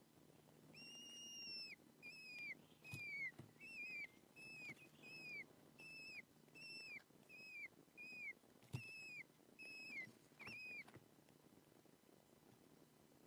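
Young falcon (alap-alap) calling: about a dozen short, high whistled notes in a steady series, roughly one a second, each held and then dropping at the end. The calls stop about 11 seconds in.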